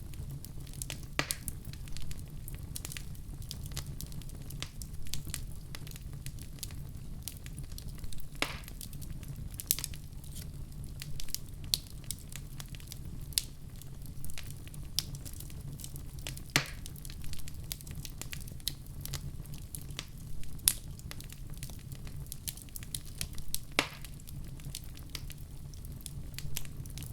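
Wood fire crackling in a fireplace: a steady low rumble of flames with scattered small crackles and a few louder pops several seconds apart.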